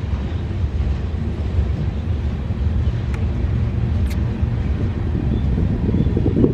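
Freight train cars rolling past: a steady, low rumble of wheels on rail, with two faint sharp clicks about three and four seconds in.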